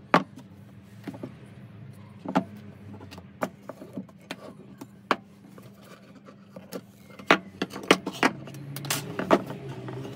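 Irregular sharp clicks and knocks of small hard parts being handled, with a cluster of louder knocks near the end, over a steady low hum.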